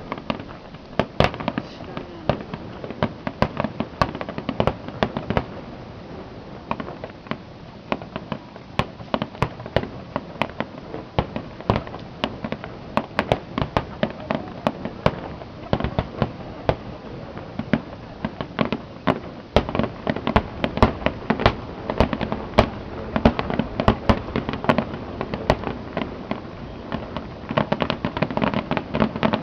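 Fireworks display: aerial shells bursting one after another, several bangs and pops a second, growing denser and louder in the second half.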